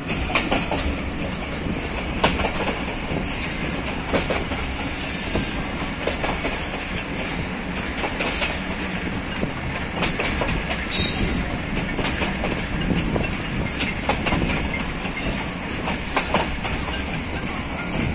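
Passenger train coach running along the track, heard through an open window: a steady rumble and rattle of the wheels on the rails, with irregular clickety-clack as the wheels pass over the joints.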